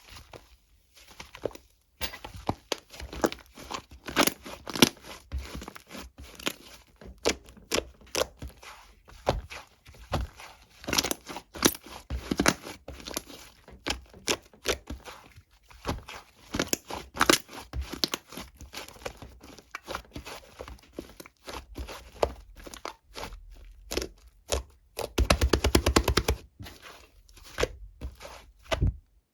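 Slime being squeezed, stretched and poked by hand, making irregular sticky crackles, clicks and air-bubble pops. Near the end comes a quick, dense run of crackling pops.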